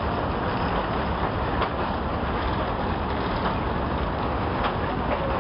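Train running across a steel truss bridge, heard from the carriage: a steady running noise with a few faint clicks from the wheels.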